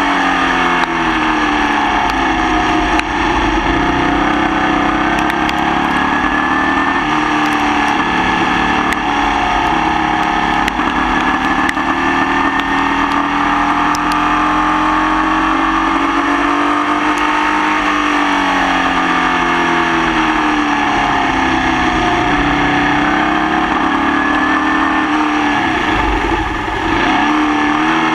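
Formula Vee racing car's air-cooled Volkswagen flat-four engine at race speed, the note climbing and falling repeatedly through acceleration, gear changes and braking, with a deep drop near the end. The engine is misfiring throughout the race.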